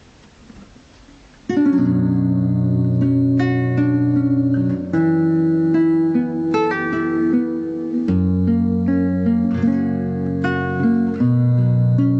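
Acoustic guitar strumming a slow chord progression as a song's introduction. It comes in about a second and a half in, after faint hiss, and the chord changes every few seconds.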